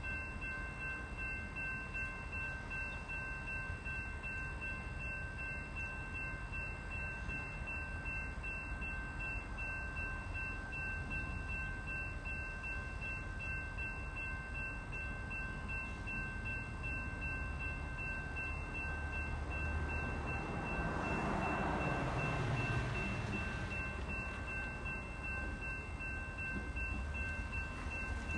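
Railway station ambience: a low rumble under a steady high whine of several held tones. About twenty seconds in, something passes, swelling and fading with a falling pitch.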